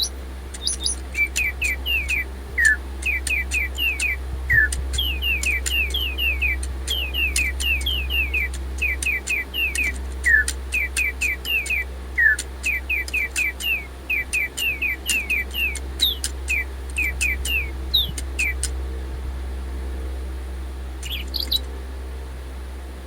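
DigiBird robot toy birds chirping electronic birdsong: quick falling chirps in close runs that die away about 18 seconds in, with a few stray chirps after. This is heard over a steady low hum. The owner takes the song for birds that have fallen out of sync with each other, perhaps because their batteries are running low.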